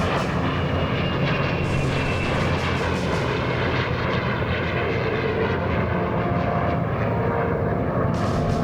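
Steady, loud engine noise from a mixed Heritage Flight formation of a P-51 Mustang with F-35, A-10 and F-22 jets flying past.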